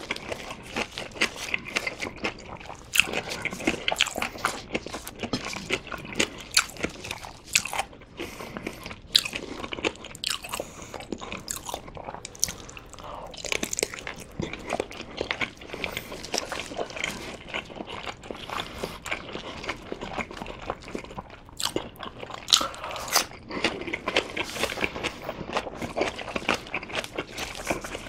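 Close-miked eating of Korean blood sausage (sundae): biting into the casing and chewing the sticky filling, with many short, sharp clicks spread irregularly throughout.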